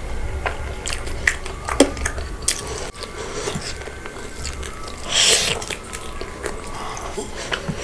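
A person chewing and biting food, with small wet mouth clicks scattered throughout and a short hissing sound about five seconds in.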